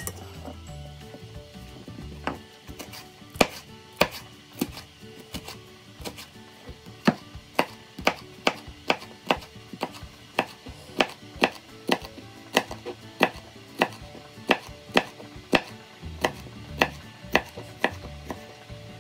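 Knife dicing a green bell pepper on a plastic cutting board: sharp knocks of the blade on the board, about two a second, starting a couple of seconds in.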